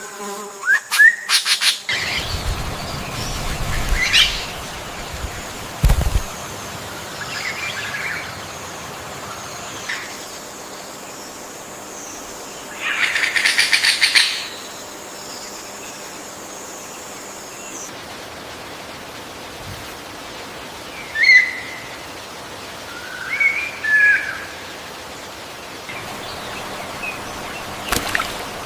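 Birds calling: scattered short chirps and calls, with a longer harsh, rattling call about 13 seconds in, over a faint steady high-pitched tone that stops about 18 seconds in.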